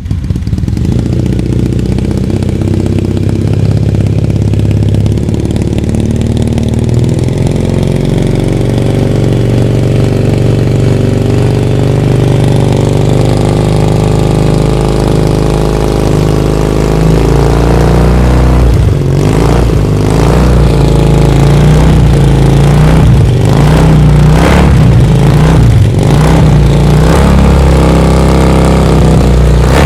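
Café racer motorcycle with an aftermarket sports exhaust idling steadily, then, from about two-thirds of the way through, revved repeatedly in short blips that rise and fall.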